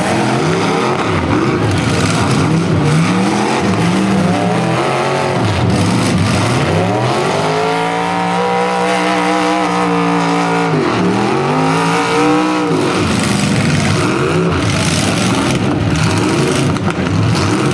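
Demolition derby cars' engines revving over a continuous din of other running engines. One engine climbs to a high rev about six seconds in, holds it for a few seconds, drops, revs up again briefly and falls back.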